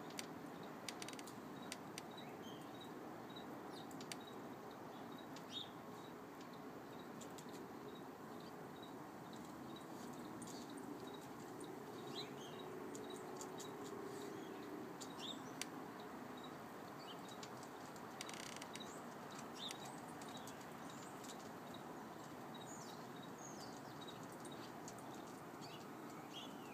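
Faint outdoor background: a steady hiss with small birds chirping now and then, a faint high chirp repeating about once a second, and a few brief clicks.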